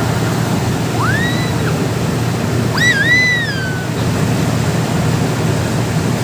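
Steady rush of water and wind with a low engine hum from a boat on the river. Two short whistled calls that rise and then fall cut through, about a second in and again near three seconds.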